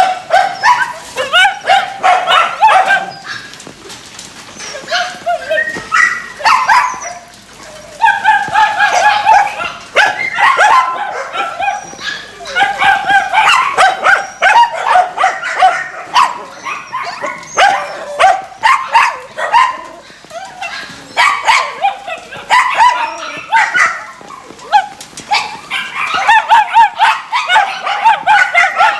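Several dogs yipping, whining and barking on and off, many short high calls overlapping, with brief lulls.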